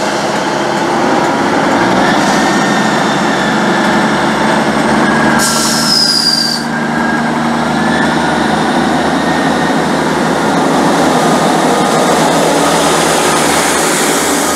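Great Western Railway Class 158 diesel multiple unit running close past along the platform: a steady loud rumble of wheels on rail and underfloor engines. A brief high-pitched squeal from the running gear comes about five and a half seconds in.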